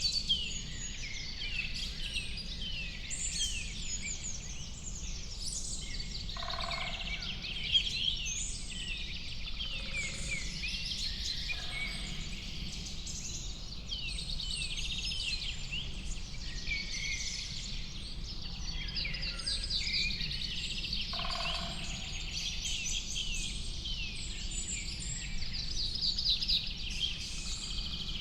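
Chorus of several songbirds singing at once: dense, overlapping high chirps and trills, with a few lower calls now and then. A steady low background rumble runs underneath.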